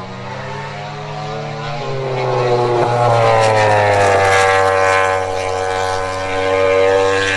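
MotoGP racing motorcycle engine at high revs, its pitch climbing about two seconds in and then falling steadily as the bike goes by.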